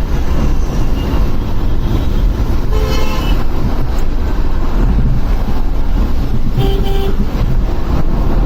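Steady low rumble of wind and traffic on a motorcycle rider's microphone in city traffic. A vehicle horn sounds about three seconds in, then two short toots a little before seven seconds.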